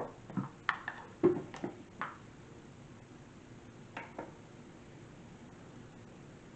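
A few light clicks and knocks of kitchen handling as a blender is readied to run. Most come in the first two seconds, and two more come about four seconds in.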